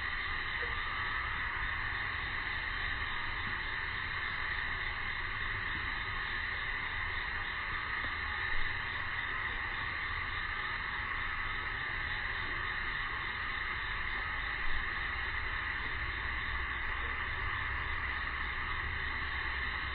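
Steady summer cicada chorus, a continuous high buzzing drone that does not change, with two brief knocks: one just under halfway in and one about three quarters of the way in.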